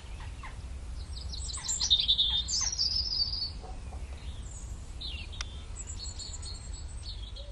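Birds chirping and twittering, loudest in a quick burst of calls about two seconds in, over a steady low rumble.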